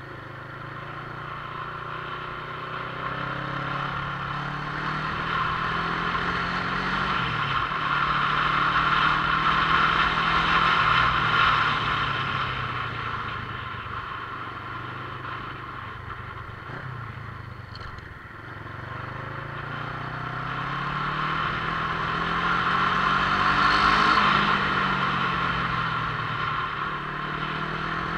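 Motorcycle engine running under way, its pitch climbing and then dropping with throttle and gear changes, around 7 and 17 seconds in. Wind and road noise rush over it, swelling and easing with speed.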